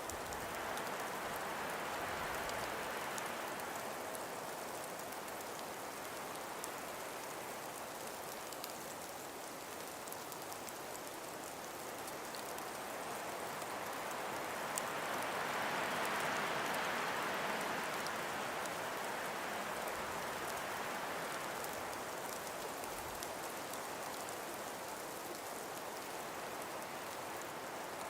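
Calm winter breeze blowing through ice-covered forest trees: a steady airy hiss that swells twice, a little after the start and again around the middle.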